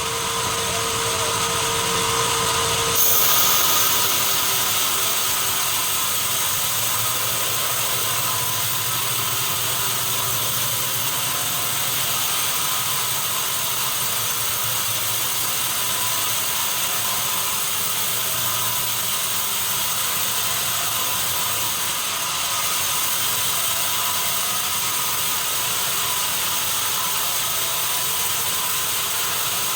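Sawmill machinery running steadily with a continuous mechanical rattle and saw noise. A steady hum stops about three seconds in.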